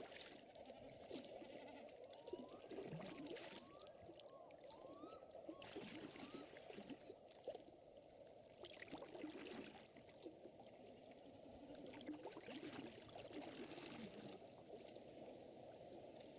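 Quiet mixed nature ambience: gently moving lake water with a crackling wood fire, its pops scattered throughout. A run of about five short rising chirps comes a few seconds in.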